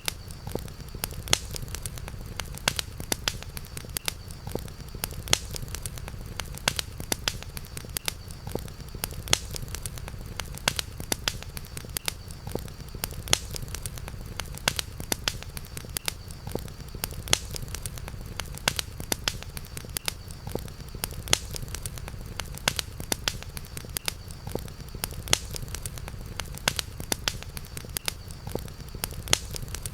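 Campfire crackling: frequent irregular sharp pops and snaps of burning wood over a steady low rumble of the flames, with a faint steady high tone underneath.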